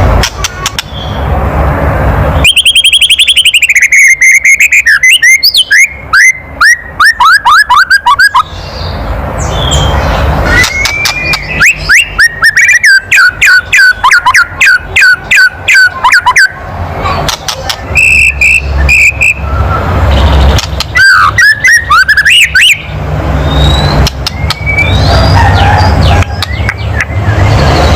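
White-rumped shama (murai batu) giving its harsh 'kretek' calls: loud bouts of rapid clicking rattles mixed with short whistled notes, repeated over and over. This is the agitated, aggressive call that keepers use to provoke a male shama into answering.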